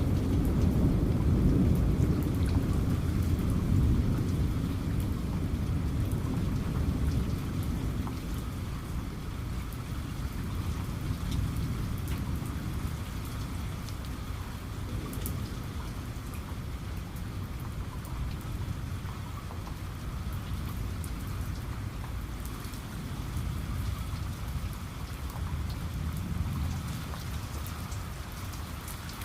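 Heavy rain falling steadily, with the patter of individual drops, under a low rumble of thunder that is loudest at the start and dies away over the first several seconds. A softer rumble swells again near the end.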